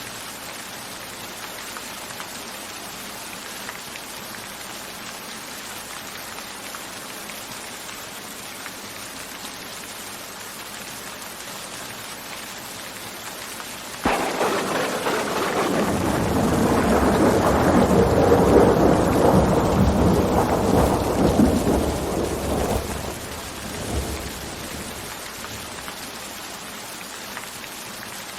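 Steady rain falling. About halfway through, a thunderclap breaks in suddenly and rolls on as a deep rumble for several seconds before fading back under the rain.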